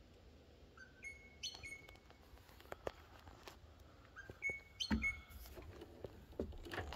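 Birds chirping in short, repeated calls. A few knocks and bumps, the loudest about five seconds in, from someone climbing into a truck cab.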